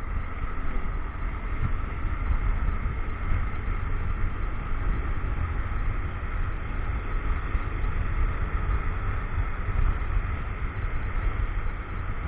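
A motorcycle riding along, heard through an action camera's microphone: a steady low rumble of wind and engine.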